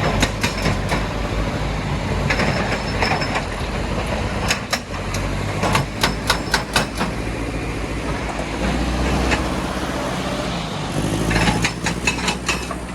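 Heavy diesel machinery running steadily, with a cluster of sharp clanks and knocks about five to seven seconds in and another near the end, where a brief hiss also starts.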